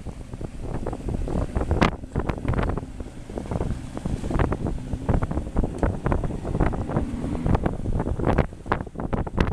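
Wind buffeting the microphone in rapid, irregular gusts aboard a rigid inflatable boat (RIB) under way, with the boat's engine running faintly underneath.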